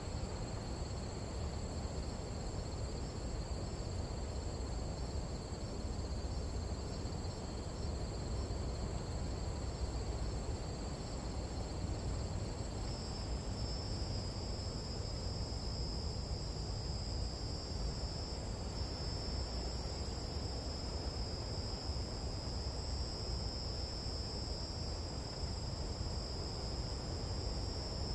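Night insects trilling in a steady high-pitched chorus. One pulses early on, and a louder continuous trill joins about halfway through, over a steady low rumble.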